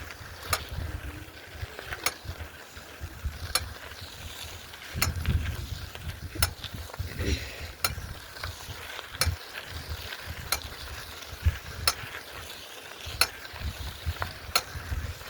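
Bicycle being ridden, with a sharp mechanical click repeating about every second and a half over an uneven low rumble.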